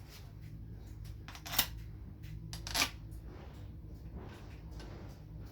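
Two light clicks of metal on metal, about a second apart, as bolts are set into the holes of an automatic transmission valve body, over a low steady background hum.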